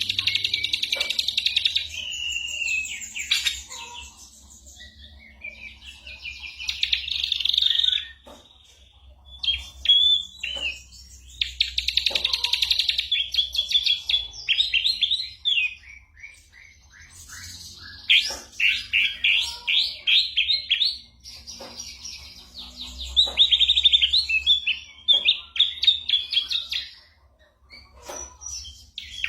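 Ashy drongo singing a long, varied song: whistled notes, fast trills and rapid series of short sharp notes, in phrases broken by brief pauses.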